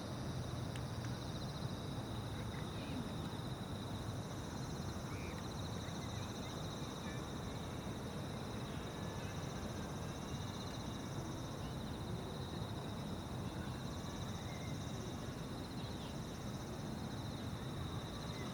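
Dusk chorus of insects trilling steadily in a high, fast-pulsing buzz, with a few faint chirps over a steady low rumble of distant background noise.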